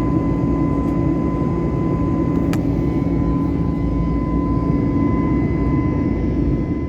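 Steady cabin noise of an Airbus airliner in flight: a low, even rumble of engines and airflow with a thin steady whine over it. A faint click sounds about two and a half seconds in.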